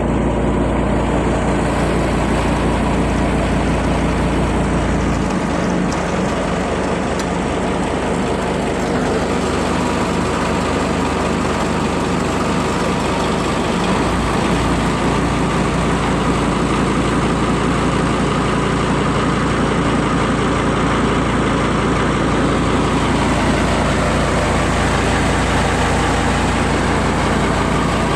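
Motor ship's engine running steadily, its low drone changing for several seconds midway before settling back.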